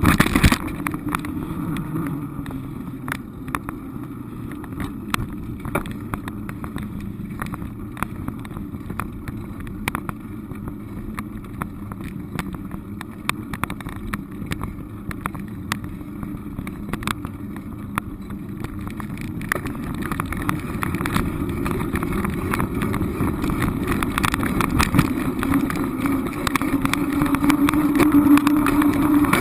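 Steady engine hum and road noise of a moving vehicle, with scattered small knocks and rattles, growing louder in the last few seconds.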